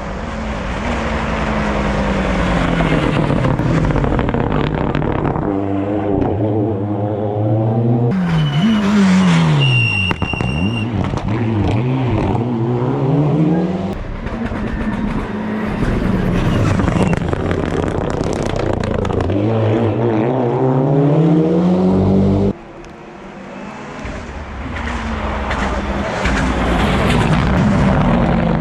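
Race car engines at a hill climb revving hard, the pitch climbing and falling again and again through gear changes and braking, with a brief high whistle about ten seconds in. The sound drops off abruptly about 22 seconds in, then builds again as another car accelerates.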